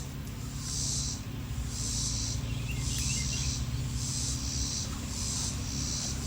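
Insects shrilling in a high, pulsing chorus, one pulse about every second, with a few faint bird chirps and a steady low hum beneath.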